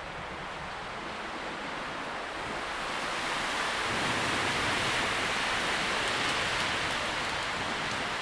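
Wind rustling through tree leaves, an even hiss that swells into a stronger gust about three to four seconds in and eases a little near the end.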